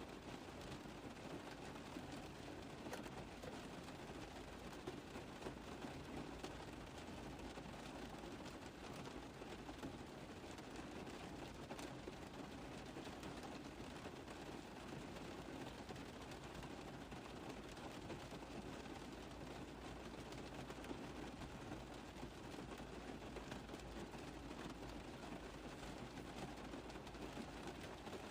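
Rain tapping steadily on a car roof: a dense, even spatter of drops with no let-up.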